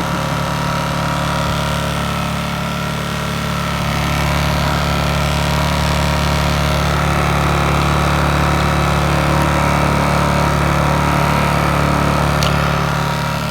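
Briggs & Stratton P2200 inverter generator running steadily after its overload reset, growing a little louder about four seconds in.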